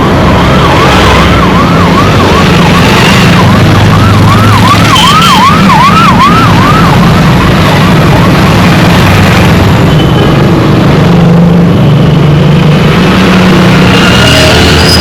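Dense road traffic with engines running, and an electronic siren warbling quickly, about two to three sweeps a second, that fades out about eight seconds in.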